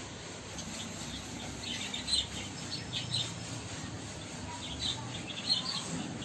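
Budgerigars chirping: short clusters of high chirps about two seconds in and again near five seconds, over a steady low hum.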